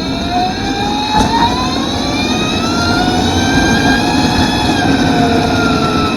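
Electric superbike's motor whining as it rises in pitch, peaking about four seconds in, then easing down, over a steady rush of wind and tyre noise.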